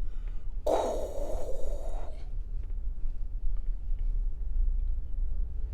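A heavy breath blown out into the microphone, lasting about a second and a half and starting just under a second in, over the steady low rumble inside a moving vehicle.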